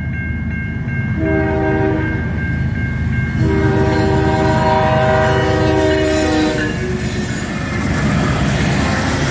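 CN freight locomotive's air horn sounding a chord, first a short blast and then a longer one of about three seconds, over the steady rumble of the passing train. The horn is a friendly greeting from the crew.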